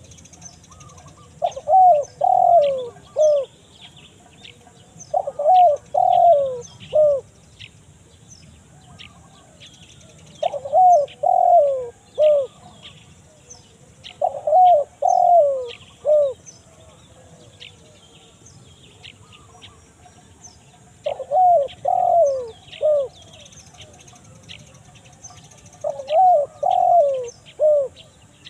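Spotted dove (tekukur) cooing, a crisp 'kuk satu' type call used as a lure for wild doves: six phrases of four or five coos each, spaced a few seconds apart. Faint chirps of small birds sound behind.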